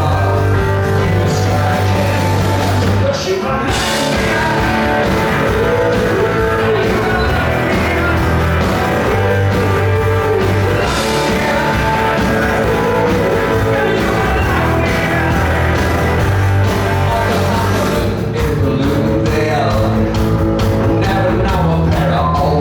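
Live rock band playing loudly, with a man singing over guitars, bass and drums.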